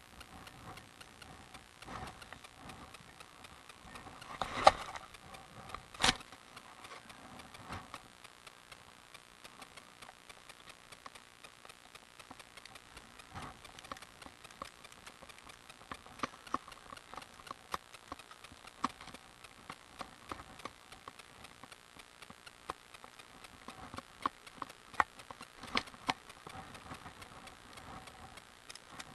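Bicycle clicking and rattling as it is ridden, with irregular small ticks and two sharp knocks in the first six seconds.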